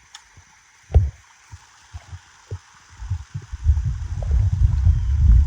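Low thumps and then a steady low rumble on a handheld phone's microphone, typical of handling noise, with a faint steady hiss of flowing river water beneath. A single sharp thump about a second in, and the rumble builds from about halfway through.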